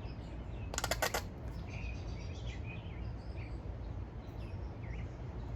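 Small birds chirping in short calls throughout, over a steady low hum. A brief rattle of several quick clicks comes about a second in.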